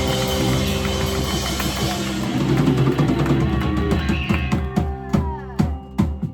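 Live rock band, with drum kit and electric guitar, playing the close of a song. The full band sound gives way about two-thirds of the way in to a few separate accented hits, each left ringing, as the song ends.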